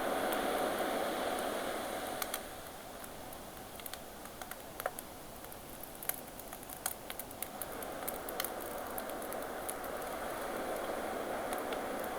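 Sea waves washing in and drawing back, swelling in the first couple of seconds and again from about eight seconds in, with a wood campfire crackling over it in scattered sharp pops.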